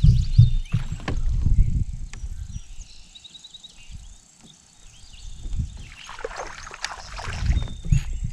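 Knocks, rubbing and water noise from someone moving about in a fishing kayak, fading out after about two seconds and coming back near the end, with a bird singing a short run of repeated high notes in the quiet stretch between.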